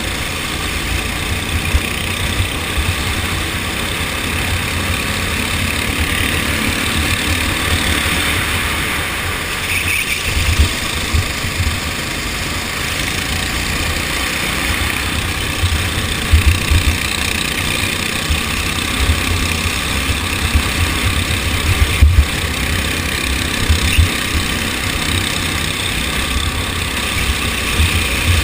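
Go-kart engine running during a race, a dense steady engine noise with uneven low thuds underneath.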